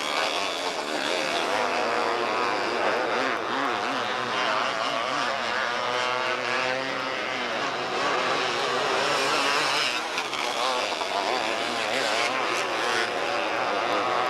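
Several small race cars' engines running hard together in a race, their pitches rising and falling as they rev through the laps.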